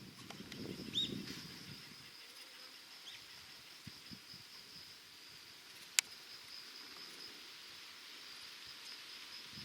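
Insects droning steadily in a high, even tone, with wind rumble on the microphone for the first two seconds and a single sharp click about six seconds in.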